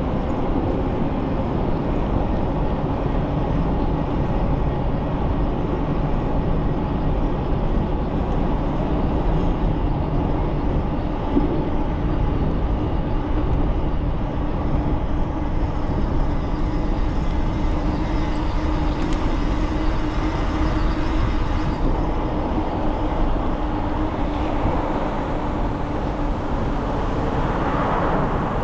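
Bicycle riding noise: tyres rolling with a steady hum over a constant low rumble.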